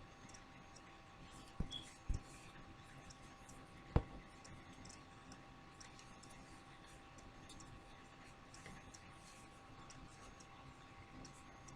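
A few short clicks and knocks from an eyeshadow palette being handled, the loudest about four seconds in, over quiet room tone with a faint steady hum.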